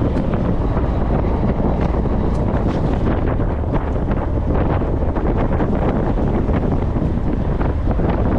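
Wind buffeting the microphone aboard a fishing boat at sea: a steady, loud rushing with a heavy low rumble.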